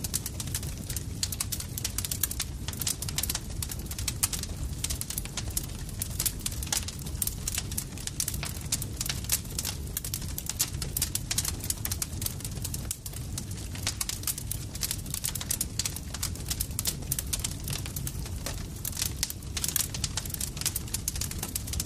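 Campfire crackling steadily, with many sharp, irregular pops and snaps over a low, constant rumble of burning wood.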